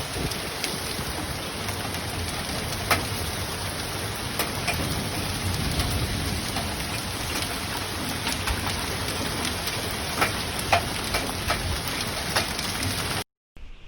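Heavy rain pouring down onto hard surfaces: a steady hiss with scattered sharp taps of striking drops. It cuts off abruptly near the end.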